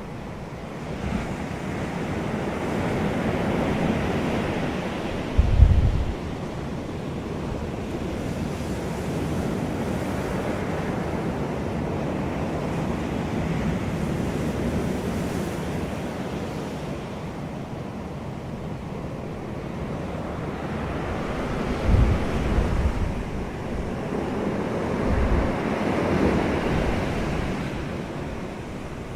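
Wind blowing in a steady wash that swells and fades over several seconds, with brief rumbling gusts hitting the microphone about six seconds in and again near the 22-second mark.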